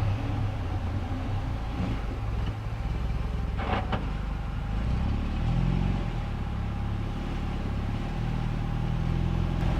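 Off-road 4x4 truck engine running at low revs, rising briefly about five to six seconds in.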